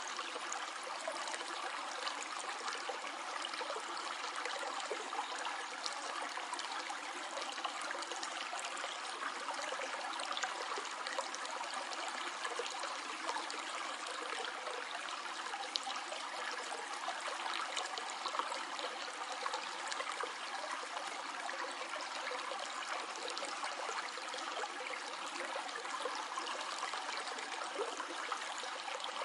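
A stream of water flowing steadily, an even rush of running water with many small splashes and droplets.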